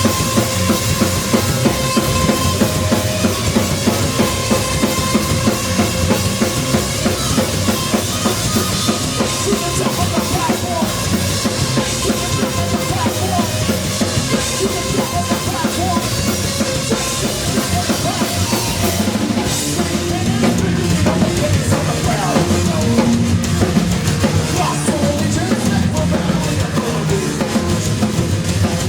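Live rock band playing loud, with a busy drum kit of bass drum and snare driving it and a held note sustained through the first ten seconds or so.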